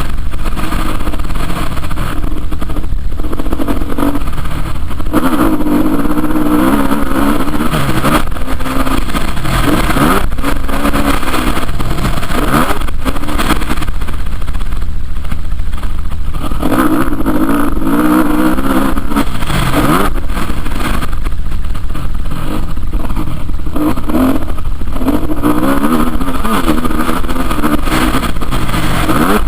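Motocross bike engines revving hard and easing off again and again as they ride the track, the pitch climbing and dropping every few seconds.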